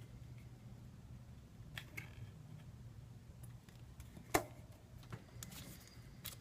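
Scattered light clicks and taps from handling small phone parts and adhesive tape during a smartphone screen repair, with one sharper click about four seconds in, over a low steady hum.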